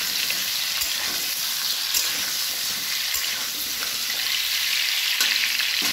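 Cubes of pumpkin frying in hot mustard oil in a metal kadai: a steady sizzle, a little louder near the end. A metal spatula stirring them adds a few scrapes and clicks.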